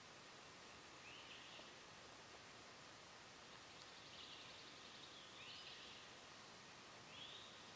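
Near-silent woodland background with a few faint, short, high bird chirps scattered through it, one of them a quick trill about four seconds in.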